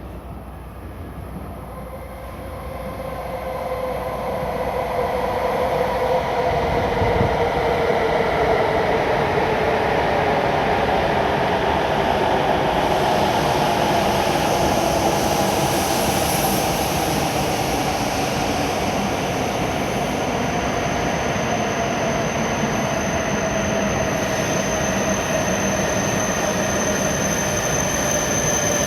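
E7 series Shinkansen train pulling in to the platform. Its running noise swells as it approaches, then holds steady while the motor tones glide slowly downward as it brakes. A thin high squeal joins near the end as it comes to a stop.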